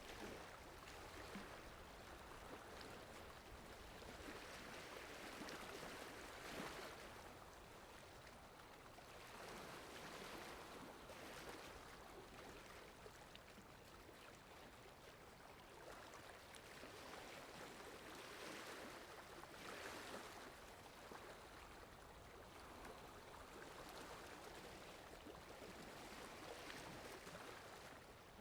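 Faint water ambience: a soft, even rush of water that swells and ebbs every few seconds.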